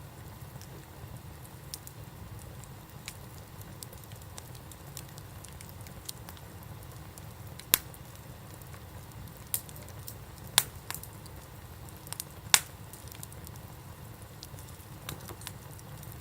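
Campfire crackling: scattered sharp pops of burning wood, a few louder ones in the second half, over a low steady rumble.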